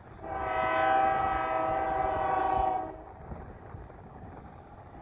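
Diesel locomotive air horn sounding one long blast of a few seconds, a chord of several steady tones, over a low rumble that continues after the horn stops.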